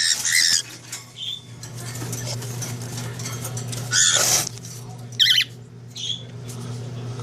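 Pet birds scuffling at the nest, with several short bursts of wing flapping and rustling about four and five seconds in, over a steady low hum.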